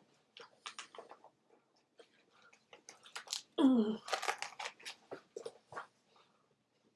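Light crackling and clicking of paper as a book's pages are handled and turned, with a brief vocal sound about three and a half seconds in.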